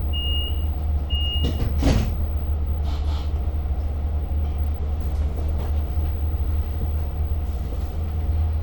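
Inside a Long Island Rail Road passenger car stopped at a station: two short high door-warning beeps, a sharp thump about two seconds in as the doors shut, then the car's steady low rumble with a few light clicks.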